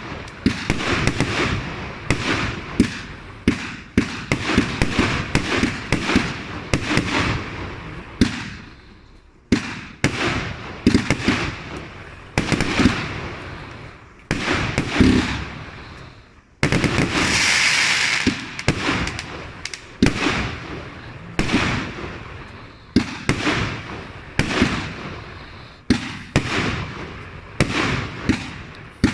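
Compact single-ignition firework show firing: a fast, irregular string of sharp bangs from bursting shells, each trailing off, with a sustained hissing, crackling stretch of about two seconds some 17 seconds in.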